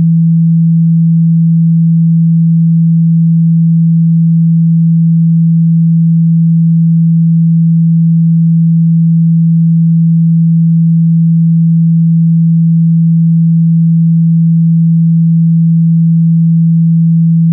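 A steady, loud 165 Hz sine tone held without change: a low hum played to vibrate water and moisture out of a phone's speaker.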